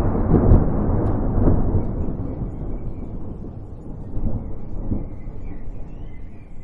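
Rolling thunder: a deep rumble that swells about half a second in and again a second later, then rolls on and slowly fades with a few smaller surges.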